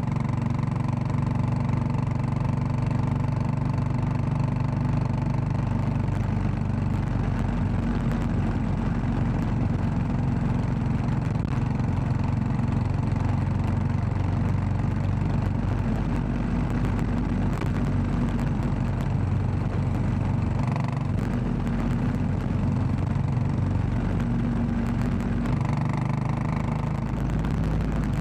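Royal Enfield Classic 500's single-cylinder engine running steadily under way, ridden at an even pace on a gravel road.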